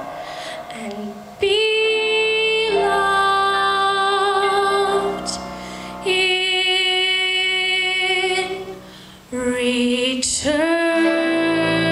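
A woman singing a slow ballad in long held notes with vibrato, separated by short pauses for breath.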